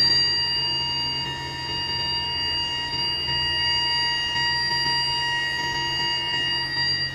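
A steady high-pitched electrical whine made of several fixed tones, over a low hum.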